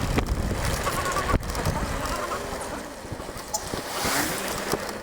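Wind buffeting the microphone of a moving electric scooter, a heavy low rumble that eases after about two seconds, with a swell of passing road noise about four seconds in.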